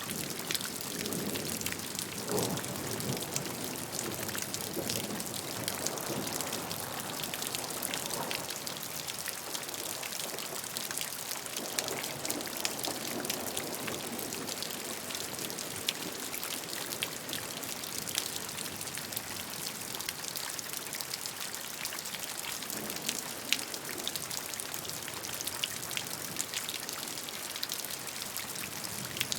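Steady gentle rain: an even hiss of falling rain with many separate drops ticking sharply on a surface.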